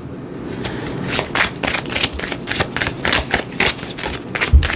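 A deck of cards being shuffled by hand: a quick, uneven run of card flicks and slaps, with a dull thump near the end.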